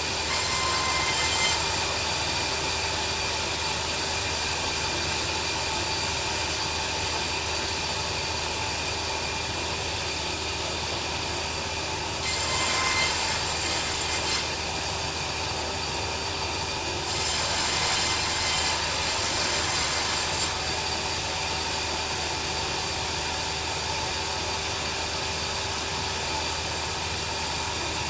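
Bandsaw sawmill running steadily with a constant hum, its blade cutting through timber in louder, hissing stretches: briefly near the start, for about two seconds midway, and for about three seconds later on.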